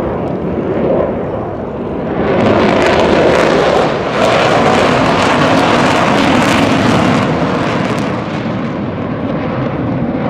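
Jet aircraft flying past. The engine noise swells about two seconds in, stays loudest for around five seconds, and then fades back.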